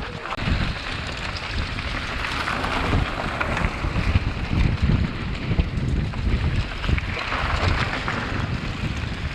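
Wind buffeting the microphone, with a steady low rumble and irregular knocks underneath.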